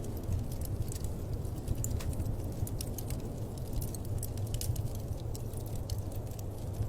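Wood fire crackling in a fireplace: many small, sharp, irregular pops over a steady low rumble.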